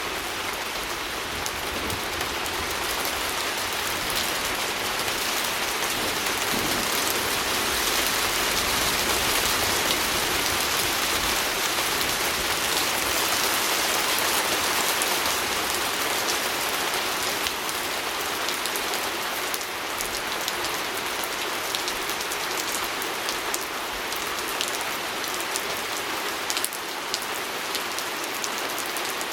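Steady rain pattering on a window pane: a dense hiss of drops with scattered sharper taps, growing a little louder toward the middle and easing off again.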